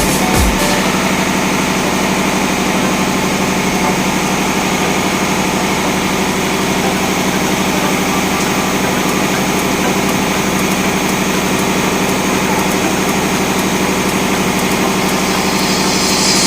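Tugboat engine-room machinery running steadily: a loud, even diesel drone with a constant hum and no change in speed. A brief hiss comes in near the end.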